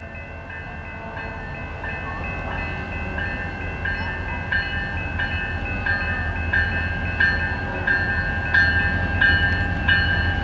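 Canadian National diesel freight locomotives approaching, their low rumble growing steadily louder. Over it a bell rings steadily, about one and a half strokes a second.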